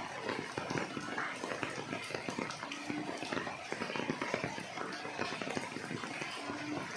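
Rain falling on large golden pothos leaves: a dense, steady patter of drops. A short low tone sounds twice.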